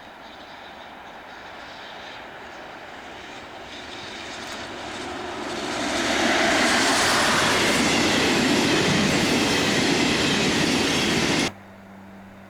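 A train approaching, growing louder over about six seconds, then passing loud and steady until the sound cuts off suddenly near the end. After the cut there is a low steady hum.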